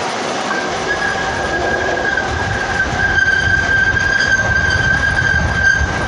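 Freight train rolling, its wheels squealing in one steady high tone that sets in about half a second in, over the low rumble of the cars, which grows louder after about two seconds.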